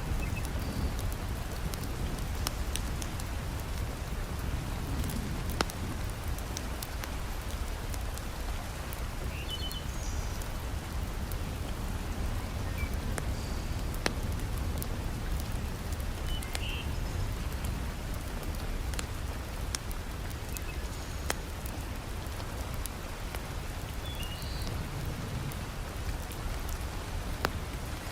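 Heavy rain falling steadily, with sharp pops of a crackling wood fire scattered through it. A few brief high chirps sound here and there.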